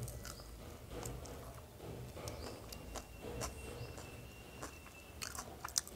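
Faint chewing with small mouth clicks, from a person eating a mouthful of vegetarian mock-fish fry.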